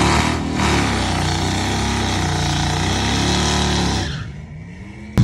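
A car engine running hard, its pitch rising and falling several times over heavy noise, then fading away about four seconds in.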